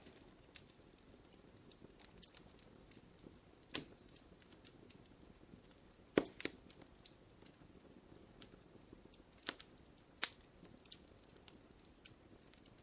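Wood fire in a fireplace crackling: irregular sharp pops and ticks over a faint low hiss of flame, with louder pops about four, six, nine and a half and ten seconds in.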